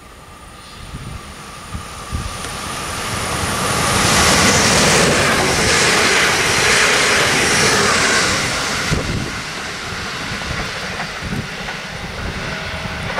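SNCB AM08 (Siemens Desiro ML) electric multiple unit passing close at speed: a rushing of wheels and air that swells over a few seconds, peaks, then drops off abruptly about nine seconds in to a lower steady rush.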